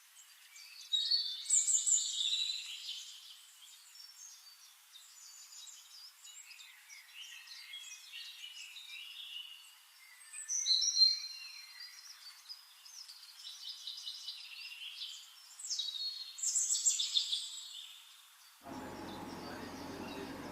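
Songbirds singing and chirping, with loud bursts of song about a second in, around the middle and near the end. Just before the end the birdsong cuts off abruptly and a steady low noise takes over.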